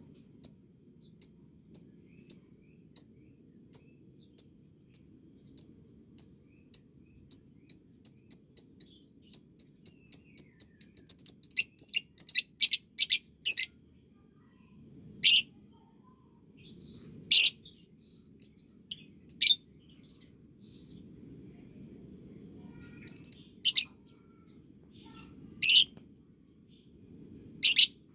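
Lovebird (Paud and Balibu) calls: short high chirps, spaced evenly at first and quickening into a rapid chattering run about ten seconds in, then a few separate short bursts of chatter.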